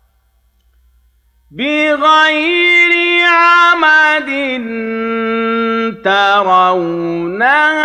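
Male Quran reciter chanting in the Hijazi style of tajweed. After a pause of about a second and a half, he sings long held notes with ornamented turns in pitch.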